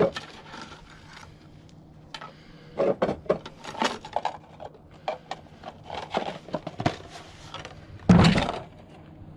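Scattered clicks, knocks and scrapes of tools and steel pieces being handled, with one louder thump about eight seconds in.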